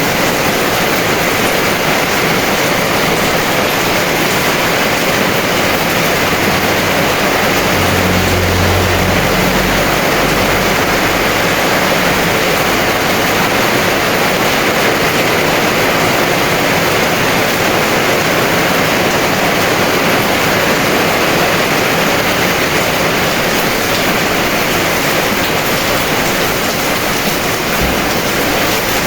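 Heavy rain falling in a steady, dense hiss, with a brief low rumble about eight seconds in.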